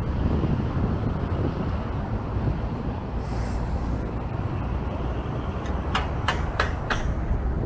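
Strong wind buffeting the microphone in a steady low rumble. There is a short hiss about three seconds in and four quick sharp clicks near the end.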